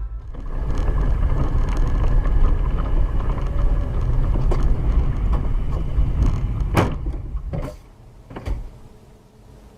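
Car driving, heard from a dashcam: steady engine and road rumble, with three sharp knocks between about seven and eight and a half seconds in, after which the rumble drops off and it goes much quieter.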